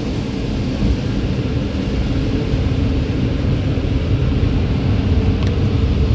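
Automatic car wash machinery running with a steady low rumble, heard from inside the car and growing slowly louder.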